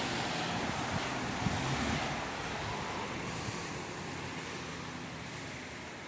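Jet airliner passing, its engine noise a broad rush that fades steadily as the plane moves away.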